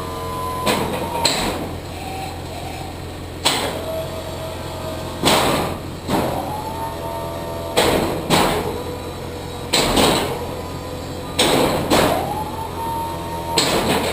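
Fisher XV2 V-plow's electric-hydraulic system working the blade through its moves: a sharp clunk every second or two, each followed by the pump's whine settling to a steady pitch, over a steady low hum.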